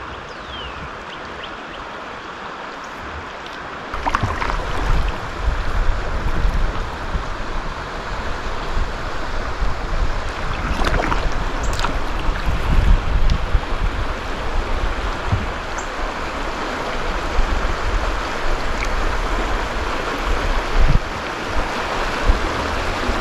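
River water rushing and splashing around a kayak, with wind buffeting the microphone. It gets louder about four seconds in, and there are a few sharp knocks.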